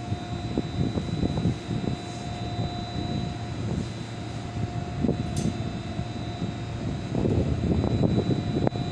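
HB-E210 series hybrid diesel train standing at the platform with its equipment running: an uneven low rumble under two steady whining tones, one high and one mid-pitched.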